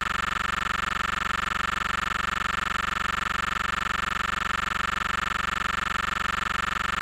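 Steady drone of a Cessna 172M's four-cylinder Lycoming engine and propeller in level cruise in the pattern, heard inside the cabin as an even, unchanging hum with a fast regular beat.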